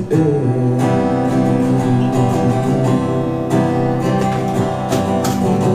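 Live band music: acoustic guitar strumming chords in a short instrumental passage between sung lines.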